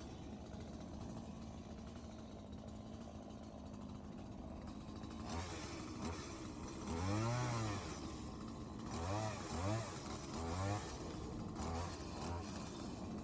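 An engine runs steadily, then from about five seconds in is revved up and down several times, each rev rising and falling over about a second.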